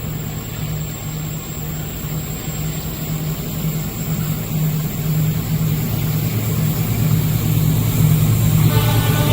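Diesel locomotive engine running with a low, pulsing hum that grows steadily louder as the train approaches the crossing.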